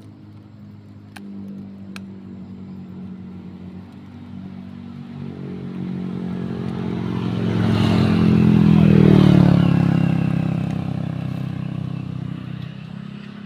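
A motor vehicle's engine passing by: it grows louder over several seconds, is loudest about nine seconds in as its pitch drops, then fades away.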